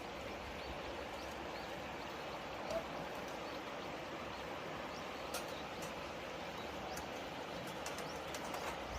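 Outdoor ambience: a steady faint hiss with short bird chirps every second or so and a few faint clicks.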